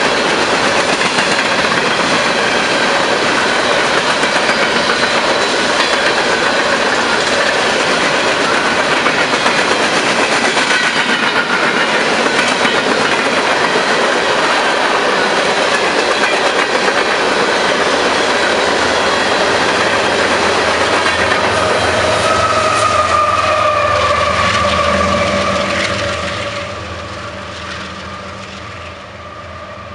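Freight train's hopper cars rolling past at close range: a steady, loud rumble with clickety-clack of the wheels over the rails and high tones running through it. The noise falls away about 26 seconds in as the end of the train passes.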